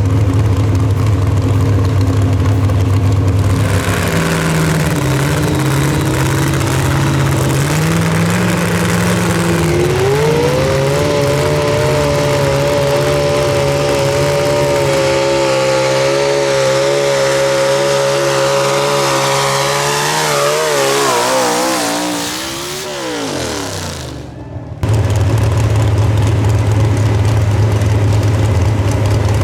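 Pro Stock pulling mini truck engine revving up from a low idle, holding high revs for about ten seconds during a pull, then its revs falling away over a few seconds. Near the end the sound switches back to a steady low engine idle.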